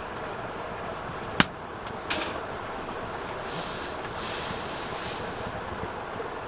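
Wood fire burning with a steady rushing hiss, one sharp pop about a second and a half in and a smaller crackle just after two seconds.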